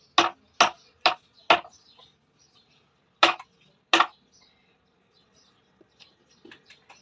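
Sharp knocking strikes: four quick blows about half a second apart, a pause, then two more, followed by faint small clicks near the end.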